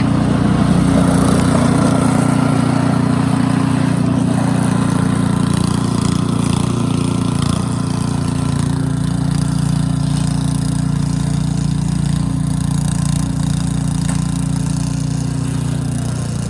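Gas snow blower engine running steadily under load as it throws snow, a loud unbroken drone.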